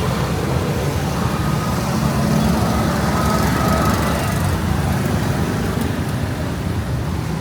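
Steady street traffic: engines of passing vehicles running continuously, with no single event standing out.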